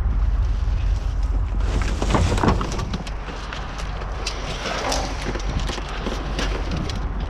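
Wind buffeting the microphone as a steady low rumble, with bouts of rattling and clinking from scrap metal being rummaged through in a dumpster, about two seconds in and again around five seconds in.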